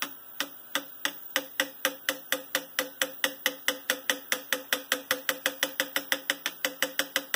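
Light hammer taps on a punch, about five a second in a steady run, each with a brief metallic ring, straightening the bent metal frame of an Athearn Trainmaster model locomotive.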